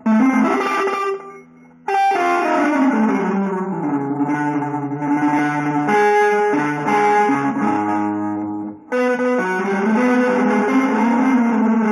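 Guitar playing music made of held chords and melodic lines, breaking off briefly about a second in and again for a moment about three quarters of the way through.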